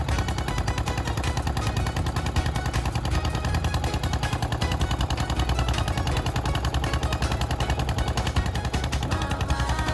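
Small boat's engine running steadily close by, a rapid, even train of knocks with a strong low rumble.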